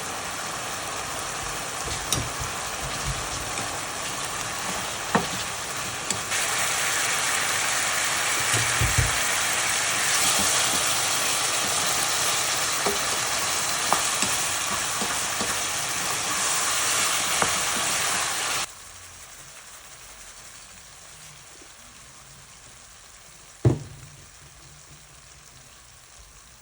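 Food sizzling in a frying pan, with scattered light clicks; the sizzle grows louder about a quarter of the way in, then stops abruptly about two-thirds through, leaving a faint hiss and a single knock near the end.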